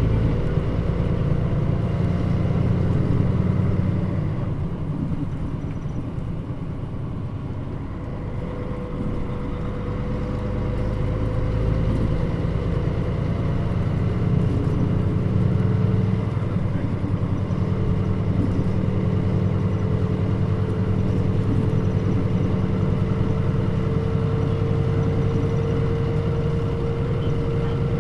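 Mitsubishi Fuso Aero Star (Nishi-Nippon body, KL-MP35JM) city bus running, its engine and road noise heard from inside the cabin as a steady drone. It eases off about five seconds in and builds again from around ten seconds, with a faint whine slowly rising in pitch.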